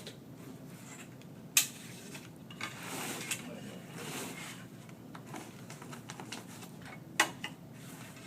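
Hand work on fiberglass duct board: two sharp clacks about five and a half seconds apart, with scraping and rustling between them.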